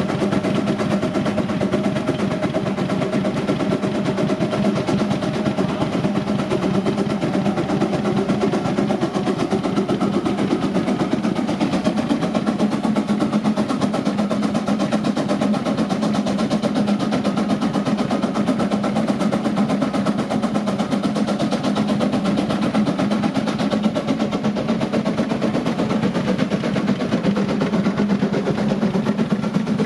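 Russell 13 hp steam traction engine running steadily under load on a water dynamometer, its exhaust beating rapidly and evenly over a steady hum.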